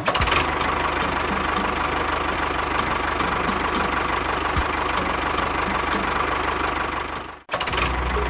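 A small tractor engine running steadily at idle, with regular light ticks about three times a second. It cuts out briefly near the end and starts again at once.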